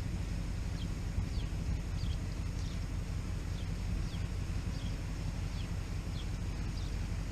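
A bird chirping repeatedly, short sharply falling notes about once or twice a second, over a steady low rumble.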